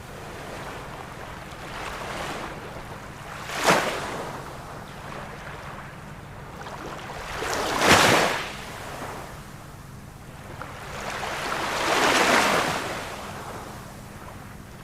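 Ocean waves breaking on the shore: a steady wash with surges every few seconds. There are two sharp crashes, near four and eight seconds in, the second the loudest, then a broader, slower swell a little after twelve seconds.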